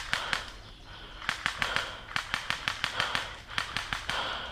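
Airsoft guns firing in short rapid bursts of sharp clicks, several groups of shots one after another.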